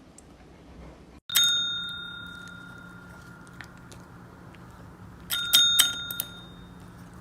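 A small metal bell struck once, ringing out clearly and fading over about two seconds. About four seconds later it is struck again in a quick run of four or five rings.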